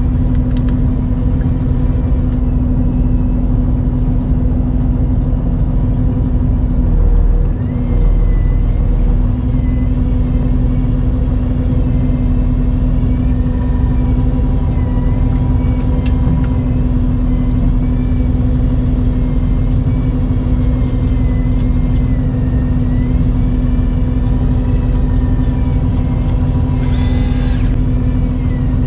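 Fishing boat's engine running steadily under way: an even, loud drone with a constant pitch. A brief higher-pitched sound cuts in near the end.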